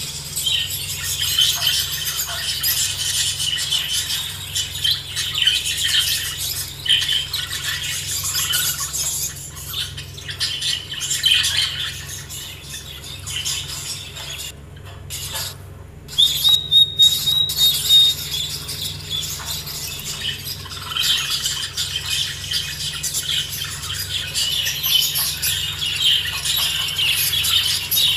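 A flock of budgerigars chirping and chattering continuously. About halfway through there is a brief break, followed by a steady high tone held for a few seconds.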